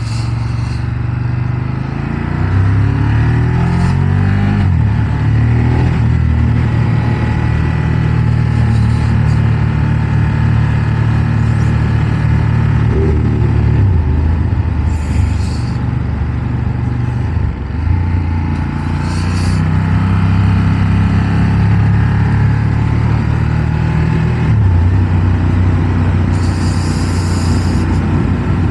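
Ducati Monster 1200's V-twin engine heard from inside the rider's helmet, climbing in steps through the gears in the first few seconds, then running at a steady road pace with a few dips and pickups in engine speed. Wind and road noise run under it.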